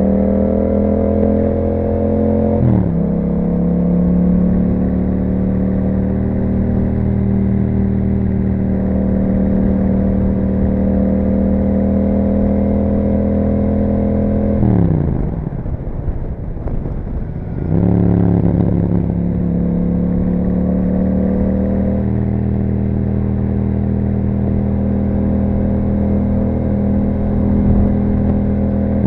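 Yamaha MT-07's parallel-twin engine running through an Akrapovic exhaust while riding, with a steady engine note. The pitch drops sharply about three seconds in, as at a gear change. Around halfway the note falls away for a few seconds as the throttle closes, then picks up again.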